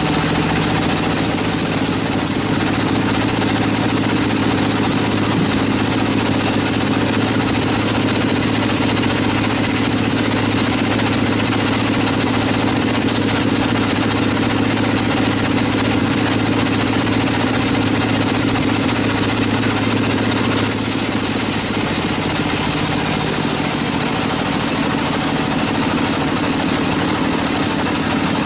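Sawmill machinery running with a steady engine-like hum. A high hiss comes and goes over it, strongest from about 21 seconds in.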